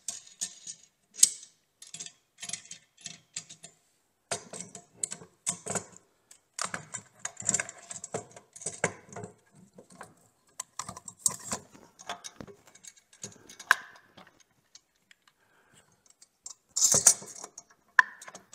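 Irregular clicks, knocks and clatter as a large Bosch random-orbit sander is handled and fitted into a tilting sander base, hard plastic and metal parts knocking together, with a louder clatter near the end.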